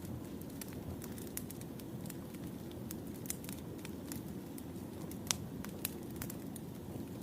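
Wood fire burning with a steady low rumble and irregular sharp crackles and pops, one louder pop about five seconds in.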